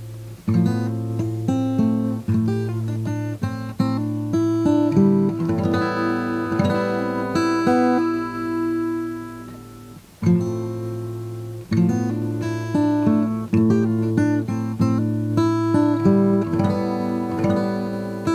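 Acoustic guitar music: a melody of plucked notes over a low bass note held throughout. The phrase stops about ten seconds in and starts again.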